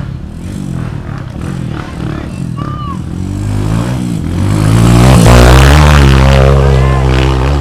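Dirt bike engine revving hard on a steep uphill climb: its pitch rises about three seconds in and it grows much louder, staying high near the end.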